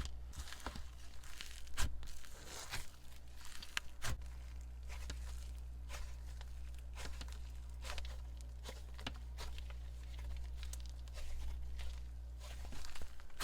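Icy slime being squished and pulled by hand, giving soft, scattered crackles and small pops.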